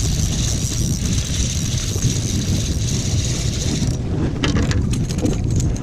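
Wind buffeting the microphone, a loud uneven rumble under a steady high hiss, with a run of sharp clicks and knocks in the last two seconds.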